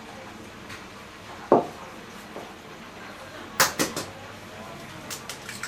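Kitchen work clatter: a dull knock about a second and a half in, then a quick run of three sharp clinks of utensils or dishes, and a few lighter clinks near the end.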